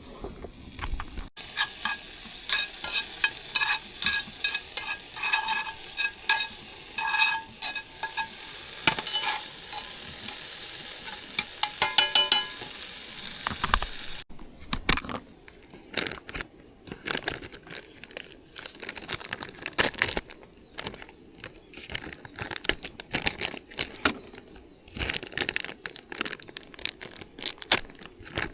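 Food sizzling in a metal pan, with the sharp ringing clinks of metal utensils against the pan. The sizzling cuts off suddenly about halfway through, leaving scattered clicks and handling noises.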